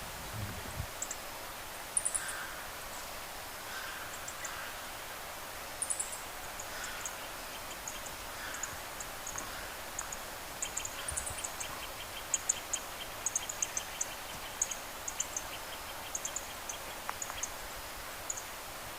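Small birds calling: short high chirps come and go throughout, with a rapid, even trill of ticks starting about ten seconds in and running for several seconds.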